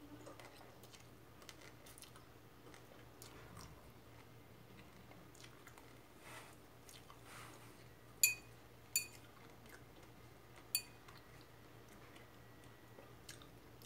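A person chewing a mouthful of raw arugula salad, with faint crunching throughout. A metal fork clinks sharply against a ceramic bowl three times in the second half, each clink ringing briefly.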